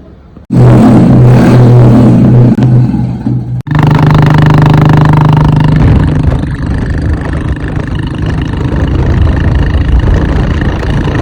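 Royal Enfield Bullet 350 single-cylinder engine running loud through a free-flow aftermarket silencer. It is held at raised revs, breaks off suddenly about three and a half seconds in, picks up again, then drops to a lower, uneven beat about six seconds in.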